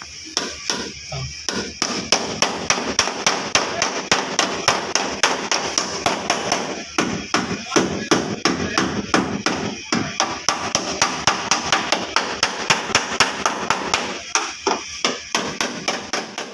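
Hammer beating out a dent in a car's sheet-metal body panel: a long run of sharp, even blows, about three or four a second, with two brief pauses.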